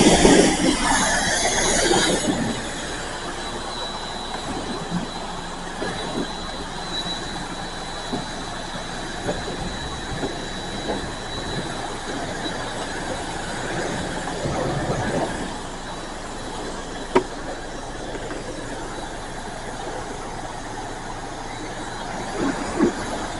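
Self-serve car wash spray wand spraying wax onto a car: a loud rush of spray for about the first two seconds, then a steady, quieter hiss with a faint high whine and a few light clicks.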